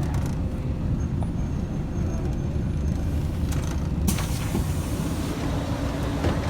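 Scania L113CRL bus's six-cylinder diesel engine running low and steady, heard from inside the cabin, with a sudden burst of compressed-air hiss about four seconds in that fades over about a second, from the bus's air system as it stops.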